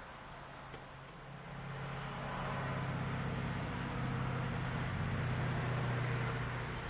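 An engine running with a steady low hum, growing louder about a second and a half in as it comes closer.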